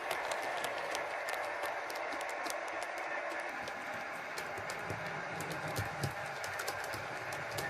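Model diesel locomotive with a DCC sound decoder running, its diesel engine sound coming steadily through the small onboard speaker, with frequent irregular light clicks from the model train on the track.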